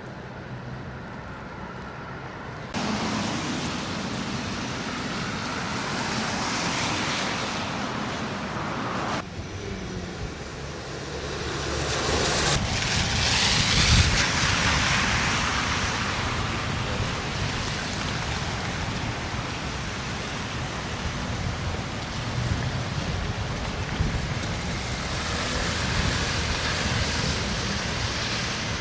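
Street traffic noise: vehicles passing on snowy roads as a steady rushing haze that swells and fades, the loudest pass about halfway through, with wind buffeting the microphone. The sound changes abruptly a few times, at about 3, 9 and 12 seconds in.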